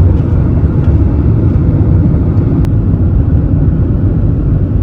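Loud, steady low rumble of a moving vehicle, starting and stopping abruptly.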